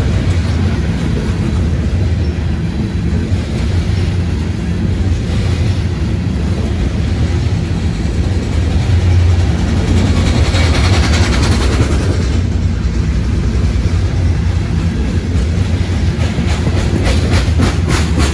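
CSX freight train rolling past, a steady low rumble of wheels on rail with a stretch of louder hiss midway. Near the end come rhythmic clicks as the wheels cross rail joints.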